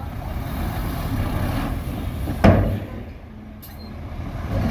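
Heavy diesel earthmoving machinery running steadily, with a sudden loud bang about two and a half seconds in. The engine noise dips for a moment after the bang.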